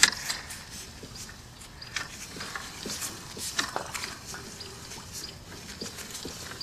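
Sewer inspection camera being pulled back through a drain pipe: irregular clicks, scrapes and small wet splashes from the camera head and push cable dragging through the pipe.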